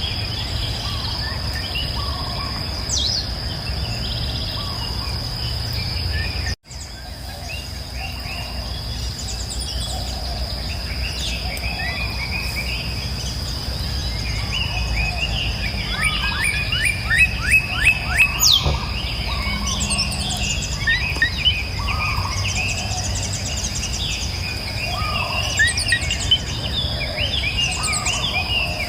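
Several wild birds chirping and singing over a steady high insect drone and a low rushing background, likely a river. Sound briefly drops out about six and a half seconds in. Partway through, one bird gives a fast series of sharp, falling chirps.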